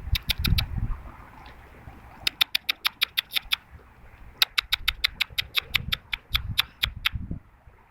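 A person making rapid mouth clicks or kissing sounds to call a bird, about seven sharp clicks a second, in two runs starting about two seconds in and again about four and a half seconds in.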